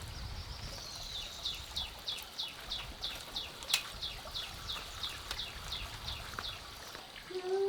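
A bird singing a long run of quick, high, down-slurred notes, about three a second, for some five seconds. A single sharp click falls in the middle, and a brief lower call comes just before the end.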